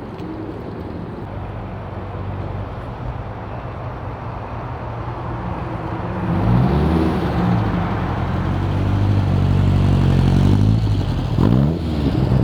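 A car engine running, getting louder about six seconds in, with its revs rising and falling once, then a dip and rise in revs near the end.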